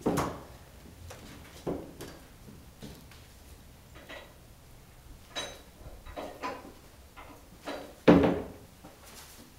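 A series of separate knocks and clunks from people handling the Cobra during unloading, with a few short squeaks; the loudest thump comes about eight seconds in.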